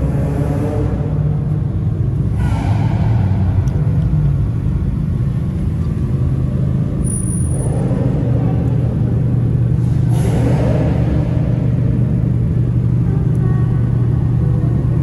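Car engines in a parking garage running with a steady low rumble, with two brief swells that fit a rev, about two and a half seconds in and about ten seconds in.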